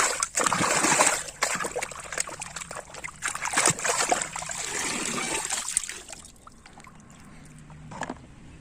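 Water splashing and trickling as a muddy plastic toy house is rinsed clean, with irregular splashes for about six seconds before it dies down to a faint trickle.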